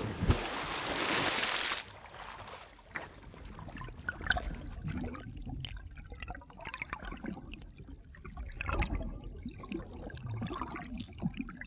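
Water: a loud rushing pour for about two seconds, then irregular trickling, gurgling and dripping.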